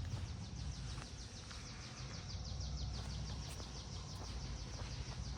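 A bird singing a long, rapid trill of high chirps, about eight a second, over a low rumble.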